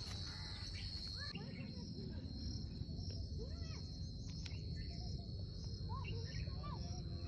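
Rural outdoor ambience: crickets or other insects keep up a steady high-pitched drone while birds give short chirps now and then, over a low background rumble.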